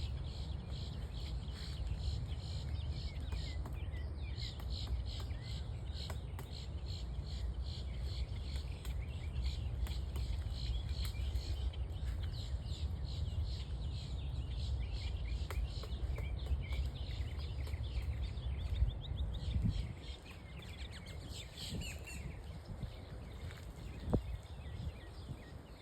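Birds calling in short chirps over a low rumble that falls away about twenty seconds in, with a few isolated sharp knocks.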